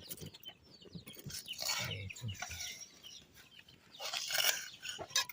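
Chickens clucking intermittently, with a few light clicks and knocks in between.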